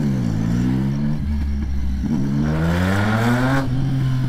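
Triumph Street Triple's three-cylinder engine running as the bike rides through traffic: the revs fall over the first half second, hold steady, then climb with a rising pitch for about a second and a half under acceleration before dropping sharply about three and a half seconds in.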